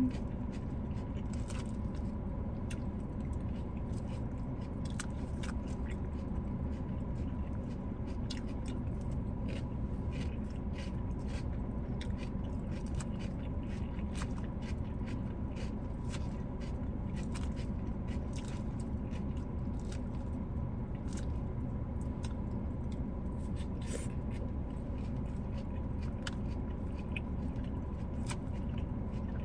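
Close-miked chewing and crunching of a salad with grilled chicken, many short crisp clicks of bites with some scraping, over a steady low hum with a faint steady tone.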